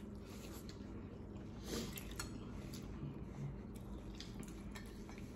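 Faint chewing of a mouthful of spaghetti, with a few light clicks about two seconds in, over a low steady hum.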